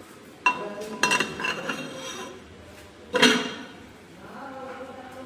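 Metal parts and tools clinking and ringing during cylinder liner fitting on a tractor engine. Sharp strikes ring out about half a second, a second and three seconds in, with lighter clinks between them.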